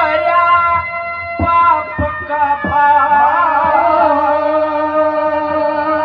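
Haryanvi ragni folk music: a harmonium-like reed instrument holding sustained chords and a moving melody, with a few sharp hand-drum strokes.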